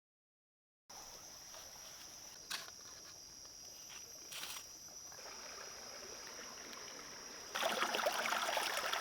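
Outdoor forest ambience: a steady high-pitched insect drone, with two short knocks in the first half. Near the end a louder rushing, crackling noise comes in.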